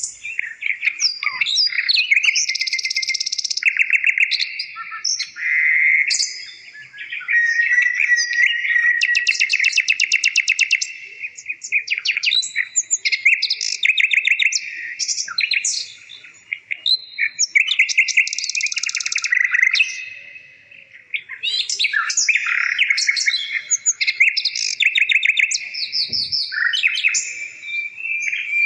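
A bird singing: a continuous run of rapid chirps and trills, broken by short pauses every few seconds.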